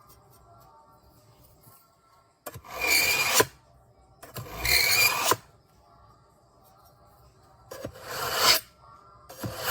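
A steel knife blade drawn through the slot of a pull-through sharpener with diamond-coated ceramic stones: about four rasping pulls, each about a second long and a couple of seconds apart.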